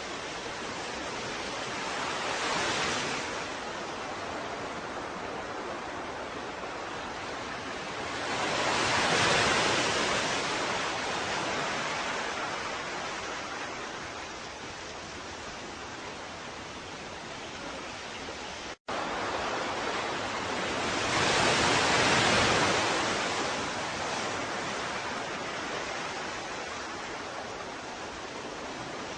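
Ocean surf: a steady wash of water with waves swelling and breaking three times, the louder two about nine and twenty-two seconds in. A split-second dropout cuts the sound about two-thirds of the way through.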